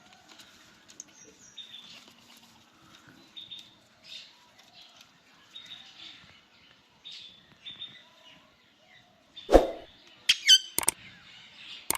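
Indian ringneck parakeet making soft, repeated chirps about once a second, then a loud squawk near the end followed by two short, sharp calls.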